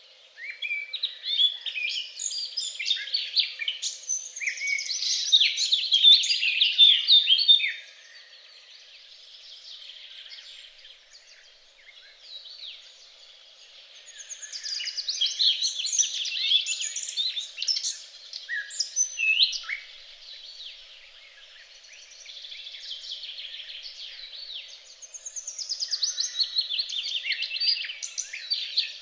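Songbirds singing in a dense, fast chorus of trills and chirps that swells in three loud spells, with quieter song between them.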